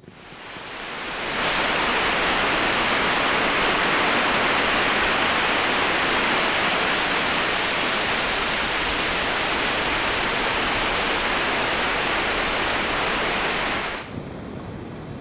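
Stream water rushing over rocks in a small cascade: a steady rush that fades in over the first second and cuts off suddenly about fourteen seconds in, leaving a quieter, duller hiss.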